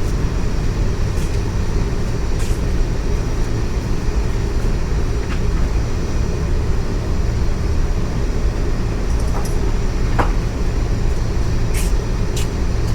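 Steady low rumble with a handful of light, separate metallic clicks from hand wrenches being fitted to motorcycle bolts.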